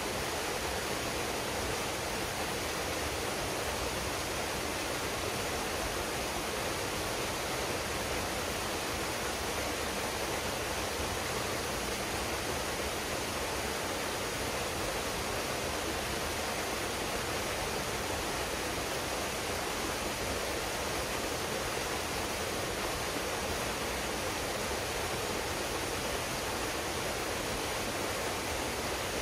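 Waterfall pouring steadily into a pool: an even, unbroken rush of falling water.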